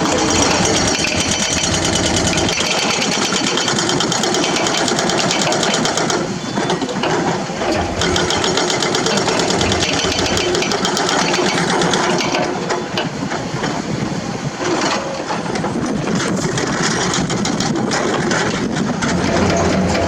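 Heavy construction machinery's diesel engine running steadily with a fast mechanical clatter, dipping slightly in level a few times.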